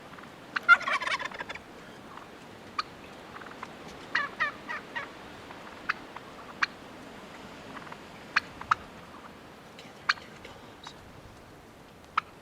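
Wild turkey toms gobbling: a loud rattling gobble about half a second in and a shorter one around four seconds in, with scattered short sharp notes in between.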